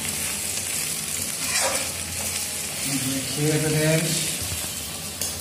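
Garlic paste frying with browned onions in hot oil in a kadai, a steady sizzle, while it is stirred.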